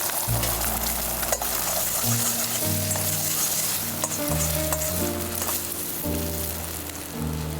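Food sizzling as it is stir-fried in a frying pan, over a background music track with a low melody.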